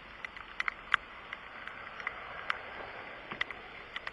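Rain falling, a steady hiss with irregular drops tapping sharply close by.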